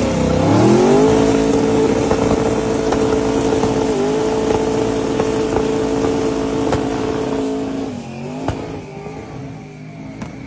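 Chevrolet C20 pickup's twin-turbo V8 revved up and held at a steady high pitch for several seconds, with a brief dip about four seconds in. About eight seconds in the revs drop and the sound fades away.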